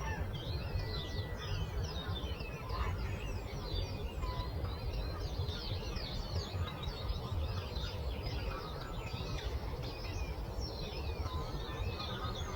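A dawn chorus of many songbirds chirping and trilling over one another without pause, over a steady low background rumble.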